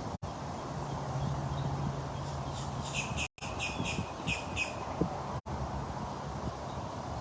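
A bird calls a quick run of short, high chirping notes for about two seconds, starting near the middle, over steady outdoor background noise. The sound cuts out briefly three times.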